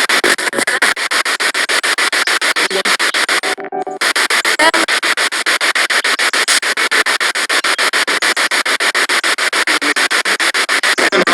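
Spirit box radio sweeping through stations: static chopped on and off many times a second, with a brief snatch of a broadcast's pitched sound about three and a half seconds in.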